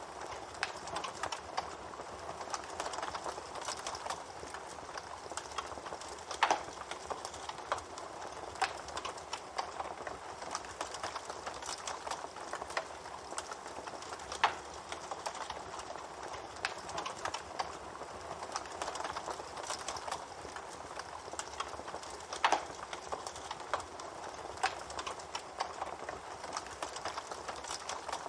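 Wood fire crackling: a steady hiss full of small snaps, with a few louder pops spread through.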